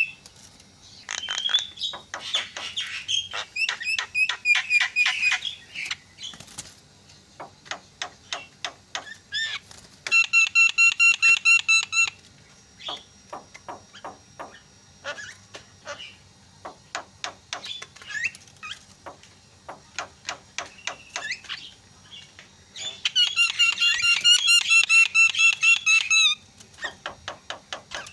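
Javan myna calling: fast runs of sharp clicking, chattering notes, broken twice by a loud, drawn-out nasal call lasting two to three seconds.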